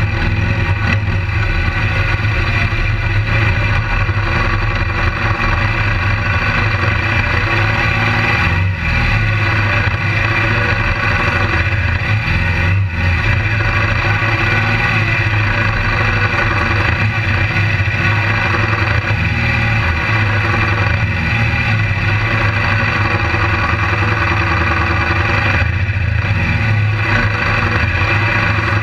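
Motorcycle engines running at a steady pitch, loud and distorted through a bike-mounted camera.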